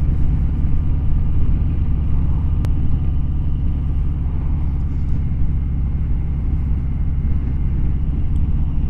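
Motorcycle running at steady road speed, its engine and wind rush making a continuous low rumble. A single short click about two and a half seconds in.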